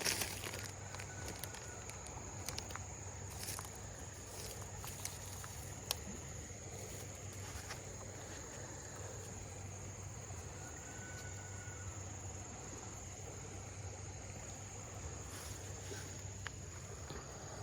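Outdoor ambience with a steady high-pitched insect drone, crickets or similar, and scattered light clicks and rustles of handling.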